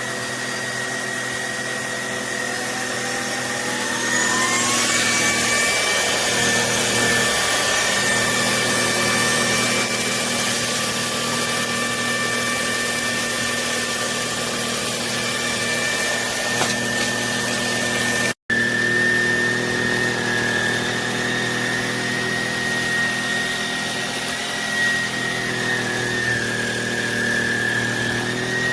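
Cordless handheld vacuum cleaner's motor running with a steady high whine; its pitch rises a few seconds in as the motor speeds up.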